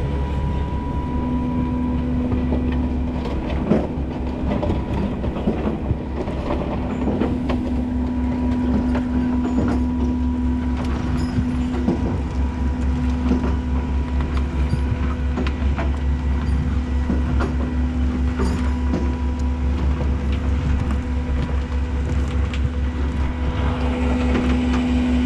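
Rollback tow truck's hydraulic winch running, pulling a pickup up the bed: a steady whine from the hydraulic pump over the truck engine's low drone, with scattered metallic clanks and rattles.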